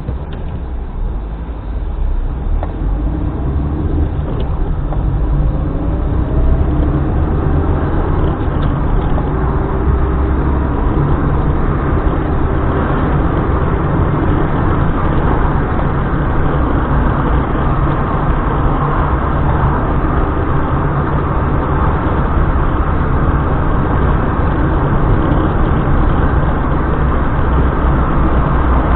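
A car driving: steady engine and road noise that builds over the first couple of seconds, with a faint rising engine note a few seconds in as it picks up speed.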